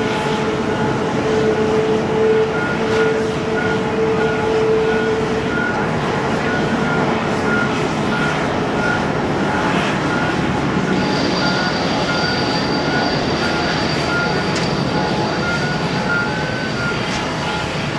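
Boeing 787-8 Dreamliner's jet engines running at low power, a steady rush of noise with whining tones. A lower tone fades after about five seconds, and a high whine sets in about eleven seconds in.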